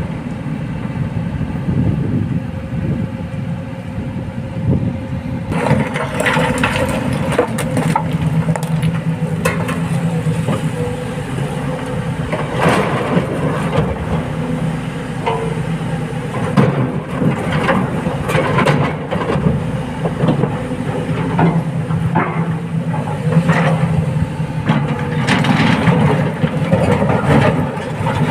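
Excavator's diesel engine running steadily while rock is loaded into a dump truck, with frequent knocks, bangs and clatter of stone striking the bucket and the truck's bed. The clatter gets busier about six seconds in.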